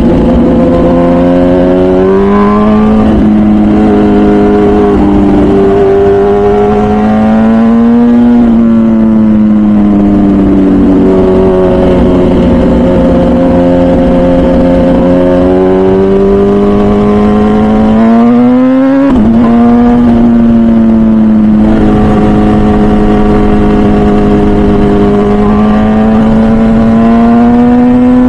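MV Agusta Brutale 1000RR's 998cc inline-four through its full titanium Arrow exhaust, running loud at moderate road speed. The engine pitch rises slowly under throttle and drops at each upshift, about three times.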